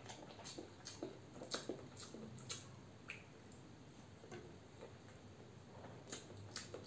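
Faint chewing and wet mouth clicks from a person eating peeled boiled eggs, with a run of sharp little clicks.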